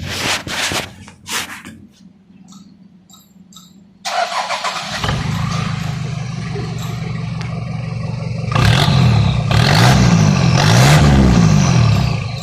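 Toyota Prado engine with its exhaust removed, starting about four seconds in after a few short noisy bursts, then running at idle. Near the end it is revved up and down about three times, the loudest part.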